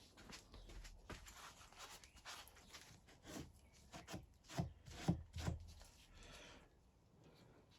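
Hands working on parts of the motorbike: irregular scraping, rubbing and clicking, with a few louder knocks about four and a half to five and a half seconds in.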